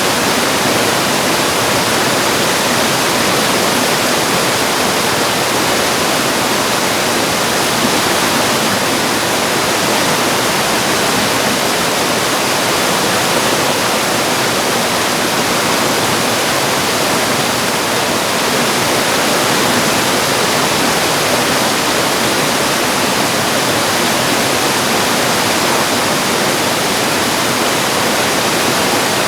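Mountain valley stream rushing over rocks in a steady, dense roar of water with no breaks.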